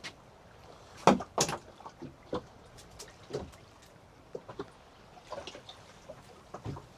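Irregular knocks and clunks aboard a small fishing boat, the two loudest close together about a second in, the rest spread out and fainter.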